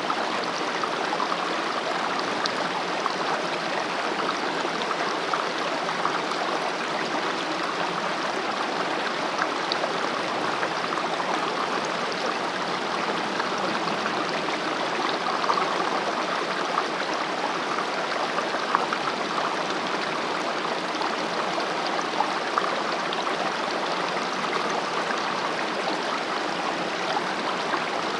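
Mountain stream running over rocks: a steady rush of water with small splashes and gurgles scattered through it.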